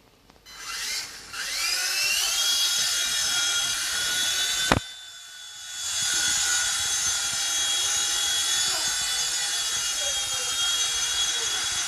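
WLtoys V911 pro micro RC helicopter's electric motor and rotor spooling up to a steady high whine. About halfway through there is a sharp knock, the whine sags for about a second, then it spools back up and holds steady.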